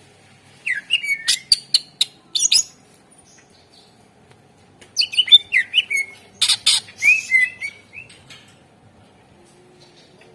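Green leafbird (cucak ijo) singing: two loud bursts of rapid chirps, sharp clicks and whistled notes that slide up and down, the second burst longer, with a short pause between.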